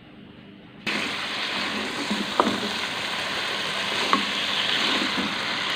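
Chicken and spice masala sizzling in hot oil in a pot while it is stirred, with a spoon knocking against the pot twice. The sizzle starts abruptly about a second in.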